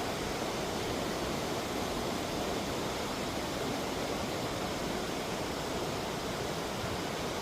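Steady rushing of a waterfall or fast creek water, an even noise that does not change.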